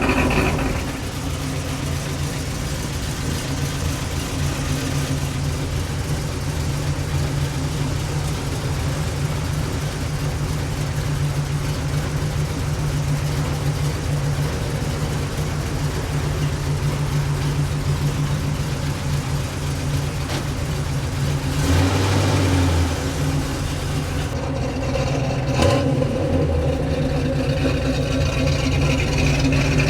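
Pontiac 455 V8 with headers idling steadily, with a short louder, deeper spell a little past two-thirds through.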